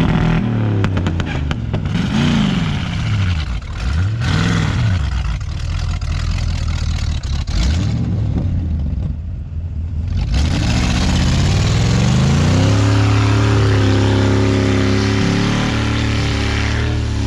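Truck engine revving hard in deep snow: three rises and falls in revs, a short easing off, then climbing to high revs that are held steadily. The truck is labouring, bogged down in the snow.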